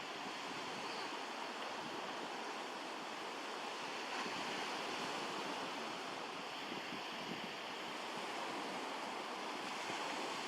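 Surf washing onto a beach: a steady, even hiss of moving water with no single wave standing out.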